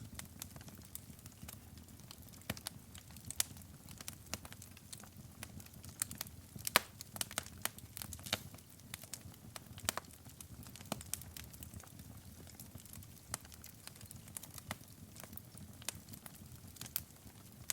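Wood fire burning in a fireplace, crackling with irregular sharp pops and snaps over a low, steady rumble of the flames; the loudest pop comes about seven seconds in.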